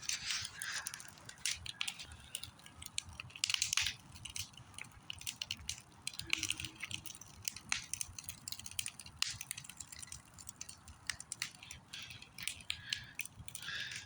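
Small campfire crackling: irregular sharp snaps and pops from the burning wood, with a few brief hissy rushes.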